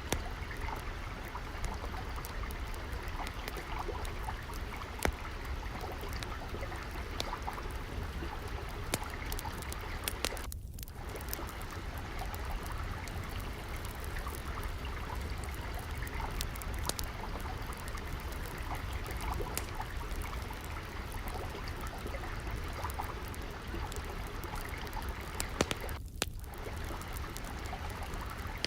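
Water steadily trickling and flowing, mixed with the irregular sharp pops and crackles of a wood fire burning in a fireplace. The water sound dips out for a moment twice.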